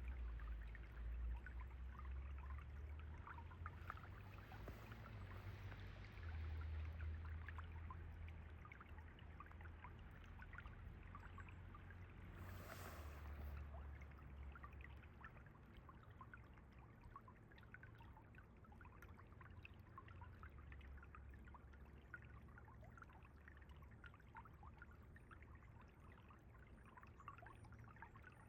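Stream water running and trickling, with many small splashes and burbles over a steady low rumble.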